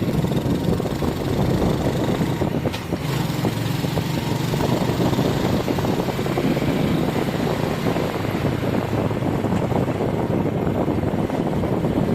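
Motorbike engine running steadily while riding, under a haze of wind and road noise.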